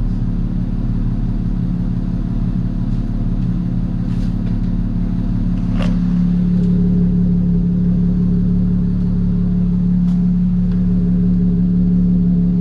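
Infiniti Q50 Red Sport 400's twin-turbo V6, fitted with a Motordyne cat-back exhaust and AMS lower downpipes, running steadily under way with a low exhaust drone that grows louder about halfway through.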